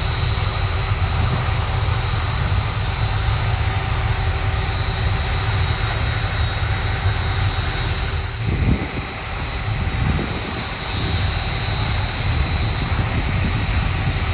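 BAE Hawk T1 jets running at idle on the ground after start-up, a steady high-pitched turbine whine. A gusty low rumble of wind on the microphone rises and falls over it, easing for a few seconds past the middle.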